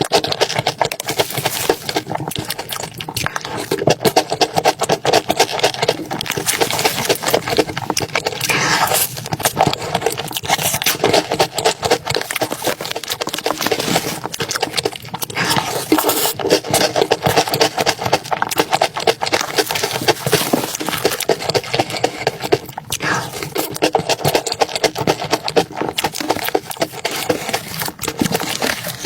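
Close-miked eating sounds: continuous chewing with a dense run of small clicks and scrapes, without pause.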